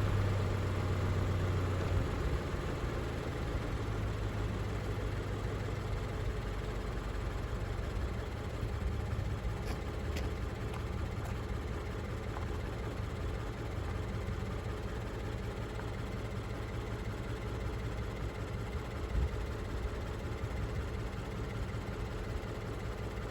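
Toyota 86's flat-four boxer engine idling steadily, the revs settling in the first couple of seconds. A brief knock comes about nineteen seconds in.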